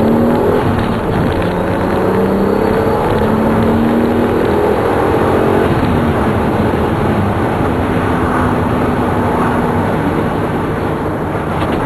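Turbocharged 2004 Hyundai Tiburon's engine pulling on the road, its note climbing slowly for several seconds, breaking off about six seconds in, then holding steady at a lower pitch, under heavy wind and road noise.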